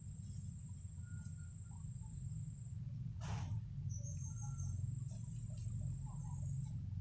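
Wind rumbling on the microphone, with a high thin steady trill held for a couple of seconds, twice, and a few short bird chirps; a brief rustling burst about three seconds in.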